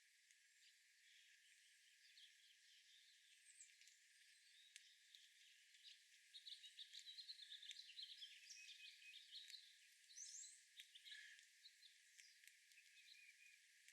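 Faint songbirds chirping and twittering over a steady background hiss, the calls coming thickest about halfway through, with a couple of sharp ticks.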